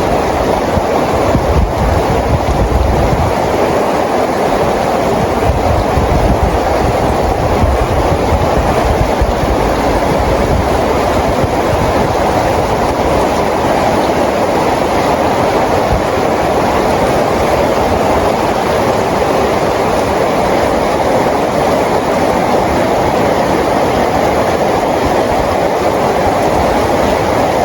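Steady, heavy rain falling, an even rushing hiss. A low rumble swells under it twice in the first ten seconds.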